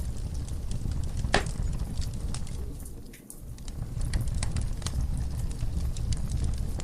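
Wood fire in a fireplace crackling, with a steady low rumble of flames and many small pops, one sharper pop about a second and a half in. The fire briefly goes quieter about three seconds in, then picks up again.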